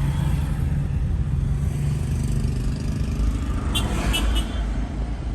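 Moving vehicle: a steady low engine and road rumble. About four seconds in come three short, high chirps in quick succession.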